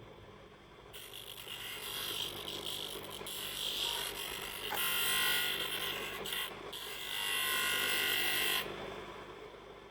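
Small handheld power tool working the plastic of a car tail light, its sound rising and falling in passes with a short lull about a second in and another near the end.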